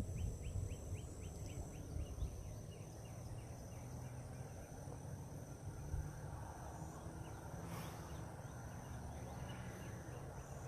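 Faint outdoor wetland ambience: insects trilling steadily at a high pitch, a quick run of short chirps, about five a second, during the first two seconds, and a low rumble of wind on the microphone.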